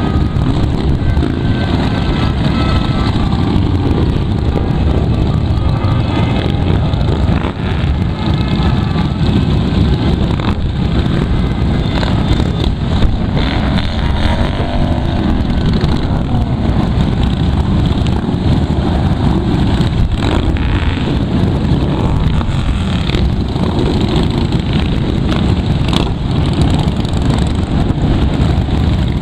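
A procession of motorcycles riding past, their engines running together in a loud, continuous mass of sound, with one brief sharp knock about midway.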